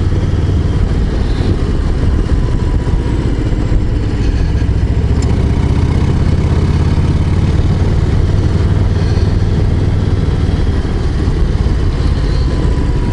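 Harley-Davidson Low Rider ST's Milwaukee-Eight 117 V-twin running steadily under way, with no sharp revving.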